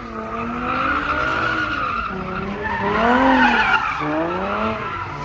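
A car's engine revving up and down several times while its tyres squeal in a sustained slide, as in drifting.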